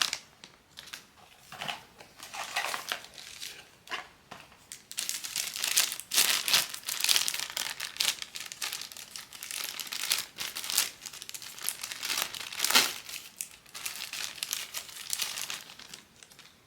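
Blind-box packaging crinkling in irregular bursts as it is handled and opened, with one sharper crackle near the end.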